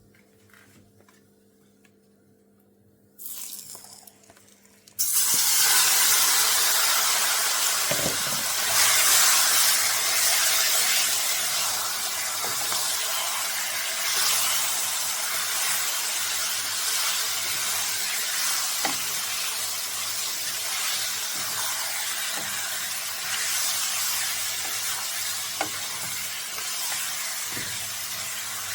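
Chicken pieces going into hot oil and burnt curry in a cooking pot: a loud sizzle starts suddenly about five seconds in and carries on, slowly easing, with a few light knocks of the pot.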